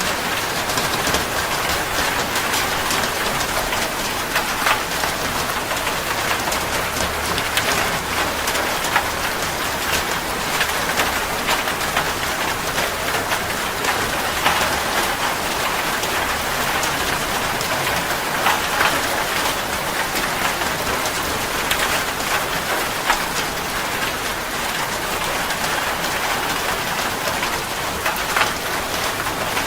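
Steady heavy rain falling, a continuous hiss dotted with many individual drops striking a surface.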